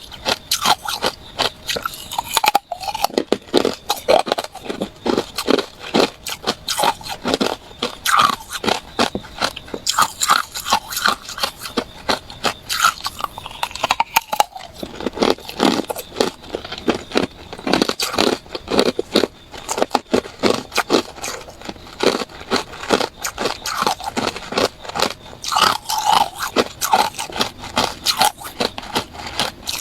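Ice being bitten and chewed close to the microphone: a dense, continuous run of sharp crunches and crackles as the pieces break between the teeth.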